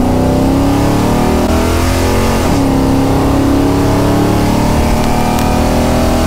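502-cubic-inch Hemi V8 of a 1968 Dodge Charger under full-throttle acceleration, its pitch climbing steadily. About two and a half seconds in the pitch drops at a three-speed automatic upshift, then climbs again.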